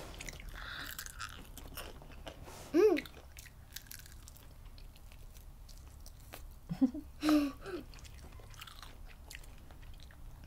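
Chewing of crunchy battered fried shrimp close to the microphone: many small crunches and mouth clicks. A short voice sound comes about three seconds in and two more just after seven seconds, and these are the loudest moments.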